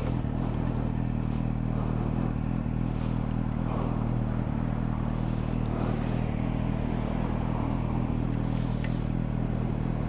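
Motorcycle engine idling steadily at an even pitch, with a few faint clicks and rustles over it.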